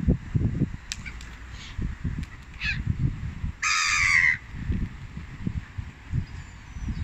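A bird gives a short call and then, about a second later, a harsh, rasping call lasting just under a second, the loudest sound here. Wind rumbles on the microphone throughout.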